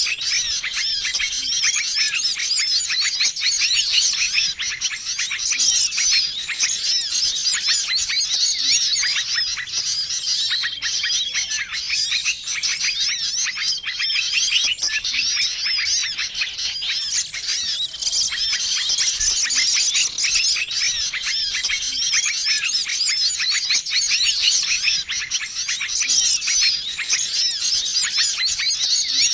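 A dense, busy chorus of many small songbirds chirping and twittering at once: a bird-lure recording made to draw in wild small birds. A short, flat whistle recurs every few seconds through the chatter.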